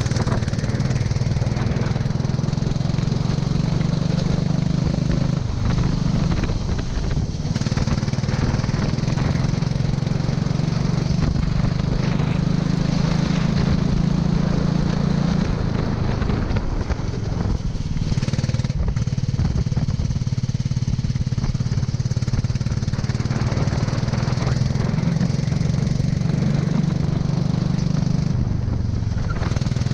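Go-kart engine running hard, its pitch rising and falling several times as the kart accelerates and lifts off, over a steady rushing noise.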